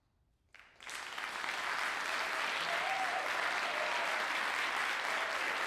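Audience applause that breaks out suddenly after a moment of near silence, about half a second in, builds within a second and then holds steady.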